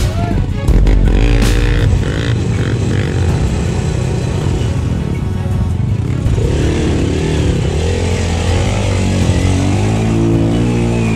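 Trail dirt bike engine revving up and down under load as it pushes through deep, water-filled mud, with background music underneath. The revs rise and fall repeatedly in the second half.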